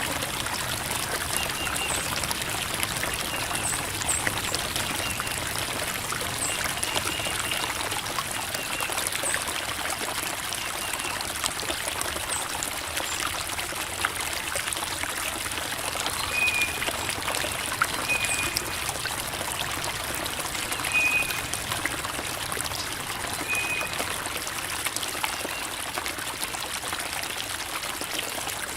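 Creek water flowing and babbling over rocks, a steady dense trickling and splashing. A few short, high bird chirps come through now and then.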